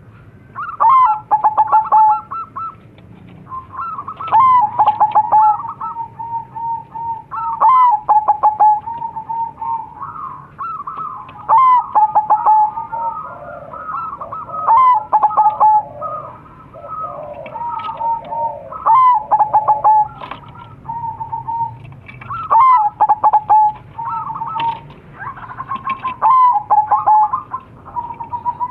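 Crossbred zebra doves (perkutut) cooing: repeated phrases of quick staccato notes ending in a rolling trill, one starting about every three and a half to four seconds. Near the middle, calls overlap, as of more than one bird answering.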